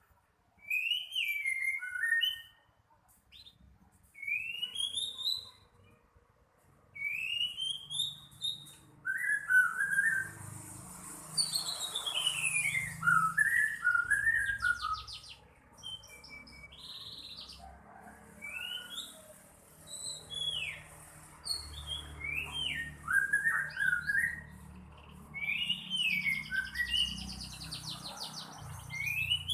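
White-rumped shama in full song: a run of loud, varied whistled phrases that slide up and down, mixed with fast trills, delivered in short bursts with brief pauses between them.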